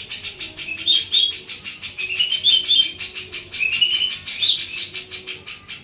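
Jenggot (a Javan bulbul kept as a songbird) singing in its rattling 'beset' style: a fast, dry, even rattle throughout, broken by clusters of short, bright chirping notes about one, two and four seconds in.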